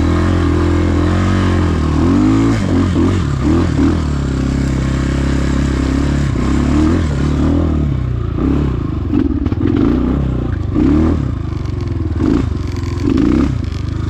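Trailmaster TM33 dirt bike's single-cylinder four-stroke engine running and revved up and down again and again on a slippery trail, the pitch rising and falling in short surges, with clattering and scraping alongside.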